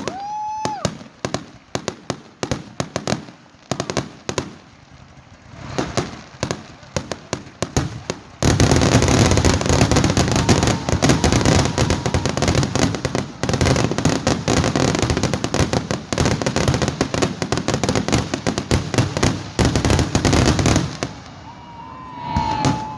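Fireworks going off: scattered bangs and crackles at first, then about eight seconds in a dense, loud barrage of rapid crackling that lasts about twelve seconds before thinning out.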